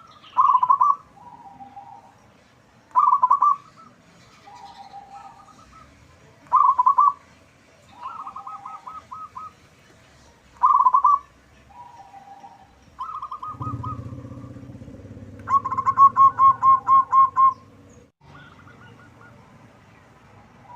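Local zebra dove (perkutut) singing its loud cooing song, the same phrase repeated every few seconds, each a bright burst followed by lower notes. Near the end a faster run of loud notes comes over a low rumble that lasts a few seconds.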